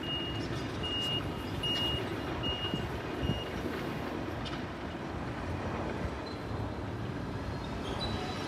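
Steady rumble of rail traffic on the station approach tracks, with a high electronic warning beep repeating about once every second, five beeps growing fainter and stopping about three seconds in.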